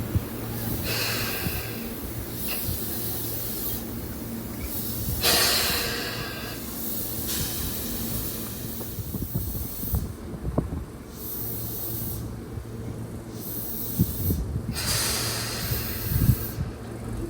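Electric commuter train at the station, with a steady low hum and repeated bursts of hissing air. There are a few short knocks about two thirds of the way through and near the end.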